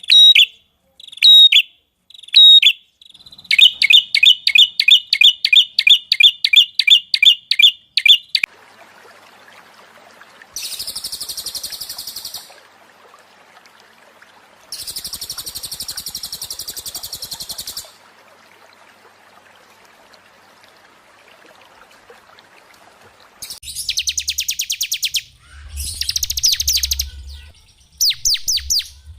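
Recorded songs of several small songbirds, one after another. A repeated sharp chirp gives way to a fast run of high chirps. Then come two high buzzing trills over a faint hiss, and near the end loud, rapid chattering over a low hum.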